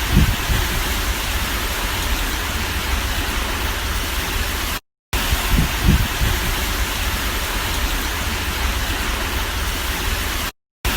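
Hurricane wind and driving rain: a steady hiss of noise with heavy low wind buffeting on the microphone. The sound drops out briefly about five seconds in and again near the end.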